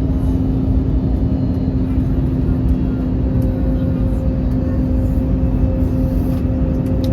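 Airbus A321neo cabin noise: a steady low rumble with a constant hum, and a second, higher tone joining about three seconds in.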